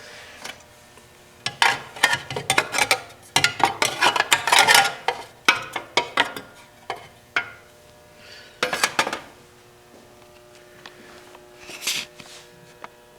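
Hard chainsaw parts clattering, knocking and scraping as they are handled, in irregular bursts of clicks and knocks, busiest in the first half and then a couple of shorter bursts later.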